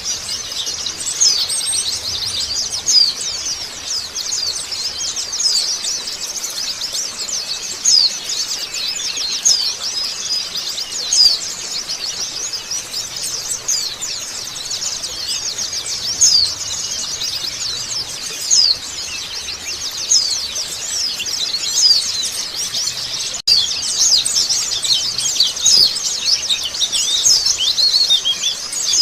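A flock of white-eyes (pleci) chattering together: a dense, continuous stream of quick, high chirps and twitters from many birds at once. There is a brief break about three quarters of the way through.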